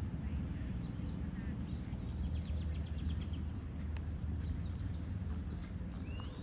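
Birds calling over a steady low rumble: a quick rattling trill about two and a half seconds in and a short rising chirp near the end.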